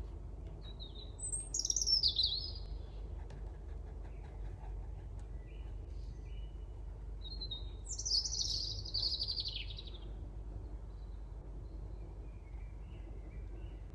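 A bird singing: two loud phrases of quick, falling, twittering notes, about a second in and again about seven seconds in, with softer short chirps between them and near the end, over a low steady hum.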